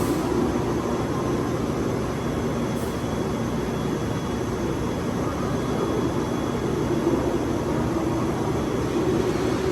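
Steady hum and rumble of a JNR-era 413 series electric multiple unit, with no sudden changes.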